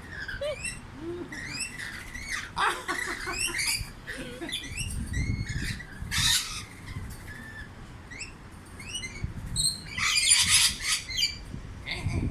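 Pet birds chirping over and over in short notes that glide up and down, with a few louder harsh bursts, the biggest about ten seconds in.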